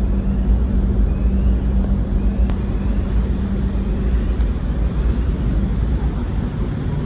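Steady low rumble and hum of the ferry Armorique's engines, heard on board while the ship is running, with one brief click about two and a half seconds in.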